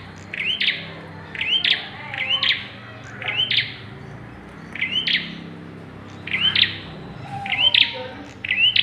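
Prenjak (prinia) calling over and over: short, sharp, high chirping phrases, each with a quick rising note, coming about once a second.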